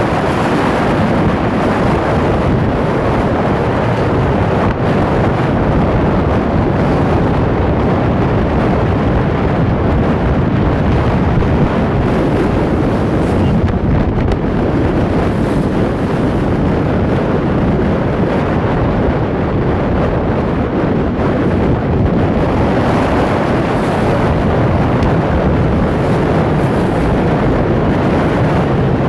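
Steady wind noise buffeting the microphone over a constant rush of sea water, as heard aboard a boat.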